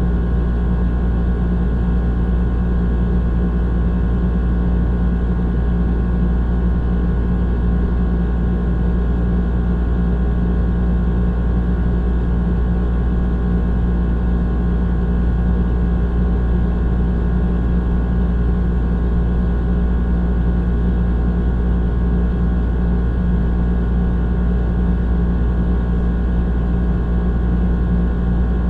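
Old air conditioner running steadily: a low motor hum with a rattling compressor-and-fan drone over it, unchanging throughout.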